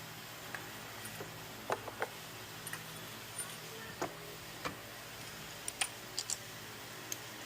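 Scattered light clicks and taps, about a dozen at irregular intervals, of hand tools and small parts being handled during spark plug and plug wire work, over a steady low hum.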